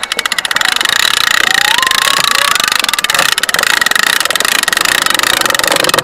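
A motor running steadily with a fast rattle and a high whine, with a short rising tone about a second and a half in.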